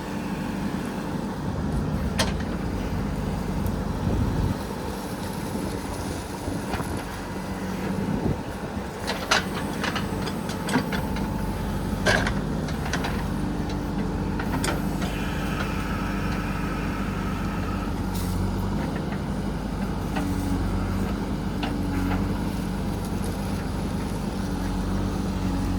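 JCB 3DX backhoe loader's diesel engine running steadily under working load, with several sharp knocks along the way and a higher whine for a few seconds past the middle.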